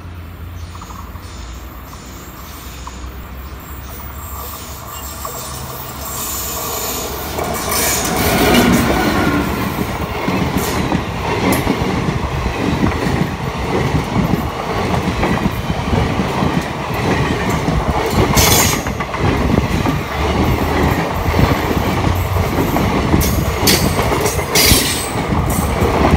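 Indian Railways express of coaches hauled by a WAP-4 electric locomotive, approaching round a curve and passing close by: the rumble builds over the first eight seconds, then the coaches rattle and clatter over the rail joints. Wheels squeal briefly on the curve twice in the second half.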